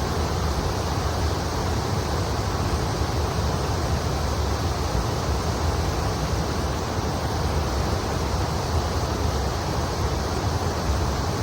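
River water flowing and rushing over a shallow bed, a steady, even sound with no breaks.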